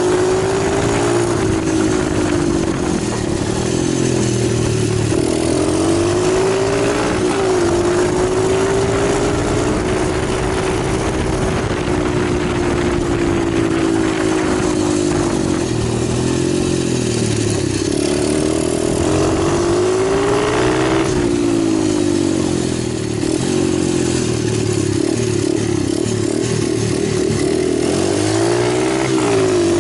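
Italjet 125cc pit bike engine running, its pitch rising and falling over and over as the throttle is opened and closed.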